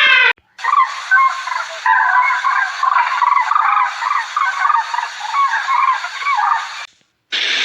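A flock of poultry calling together, many short overlapping calls at once, cutting off suddenly about seven seconds in.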